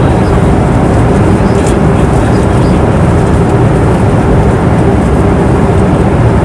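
Airliner cabin noise in flight: the steady rush of engines and airflow, strongest in the low range, with a faint steady hum above it. A tiny faint click comes through about two seconds in.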